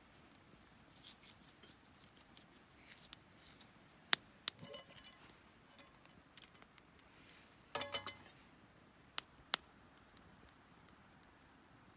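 Quiet handling sounds: soft rustling, then scattered sharp clicks and taps, with a short cluster of clicks about eight seconds in.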